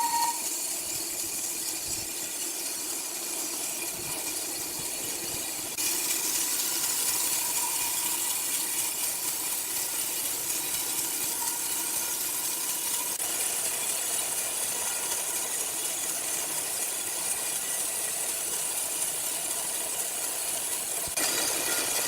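Sawmill machinery running steadily: a hissing noise with a faint hum under it, stepping louder about six seconds in.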